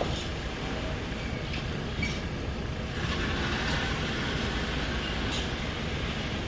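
Train running on the rails with a steady low rumble and a couple of short wheel knocks, growing a little louder about three seconds in.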